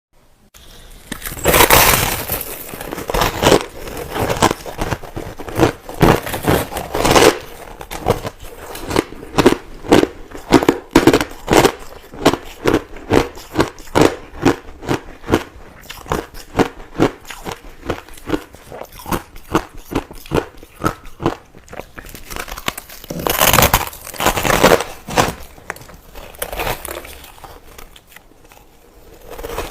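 Crushed ice being bitten and chewed close to the microphone. There are loud crunching bites near the start and again about three-quarters of the way through, and between them a long run of rhythmic chewing crunches, about two a second.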